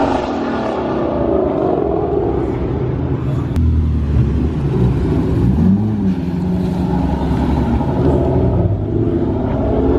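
Car engine running at low revs, its pitch rising and falling briefly about halfway through.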